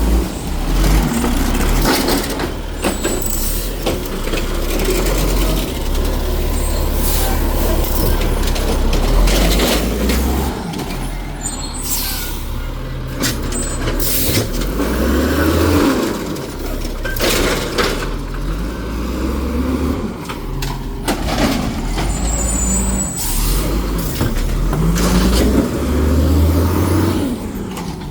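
Garbage truck engine revving hard over and over as it works its hydraulic packer on a load of trash, the pitch climbing and falling several times, with sharp clanks and hisses of air now and then.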